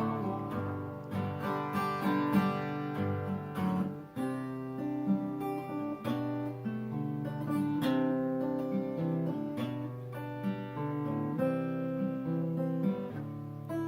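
Acoustic guitar strummed in chords, an instrumental passage of a song with no singing.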